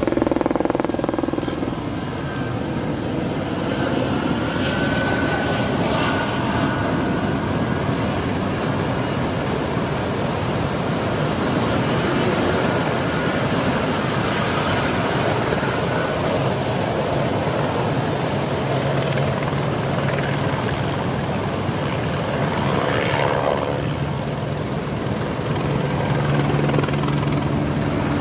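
A steady engine drone over a loud, rushing noise, with a low hum that comes through more clearly in the later part.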